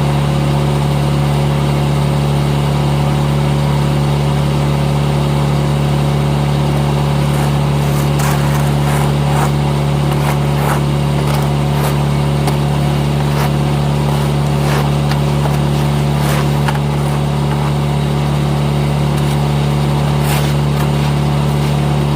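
An engine running at a steady, unchanging speed, with scattered clicks and knocks over it in the middle stretch.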